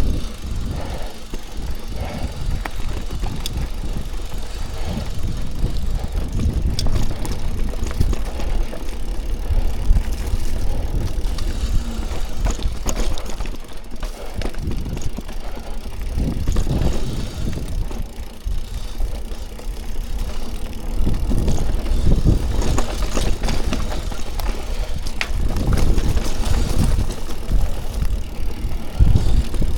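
Mountain bike riding over rooty technical singletrack: a continuous low rumble from the tyres and frame, broken by frequent knocks and rattles as the bike hits roots.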